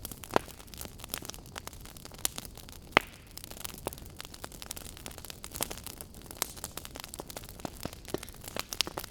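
Fireplace fire crackling: irregular snaps and pops over a low steady hiss, with a sharp pop just after the start and a louder one about three seconds in.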